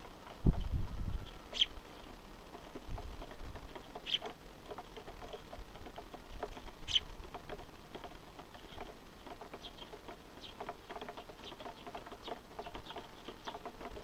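Small birds calling, likely fledglings begging for food from a parent. Single short, sharp high chirps come a few seconds apart, then a run of soft, quick chirps fills the last few seconds. A brief low rumble about half a second in, likely wind on the microphone.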